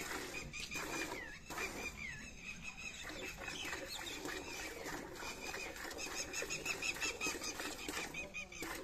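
Birds chirping: quick repeated high notes with short falling calls, and a fast high trill near the end.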